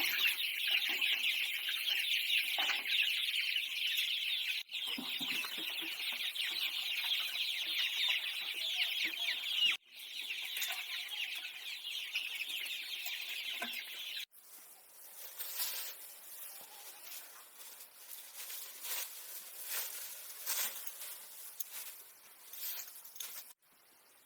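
Chickens clucking over a steady high-pitched hiss, broken by abrupt cuts; after a cut about two-thirds through it turns quieter, with scattered short high chirps.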